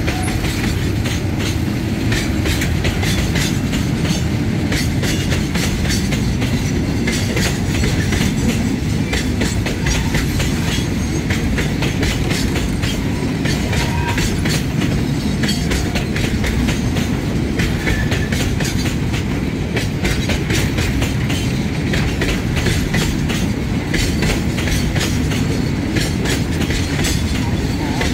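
Freight train of railway tank wagons rolling past: a steady rumble of wheels on the track with many irregular clicks and clacks over the rail joints.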